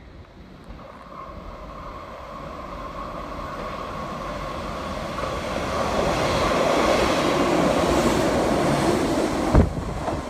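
Red RBS metre-gauge electric commuter train approaching and running into the station, its rumble growing steadily louder as it draws alongside, with a thin steady high tone above it. A single sharp knock sounds near the end, and the train noise drops after it.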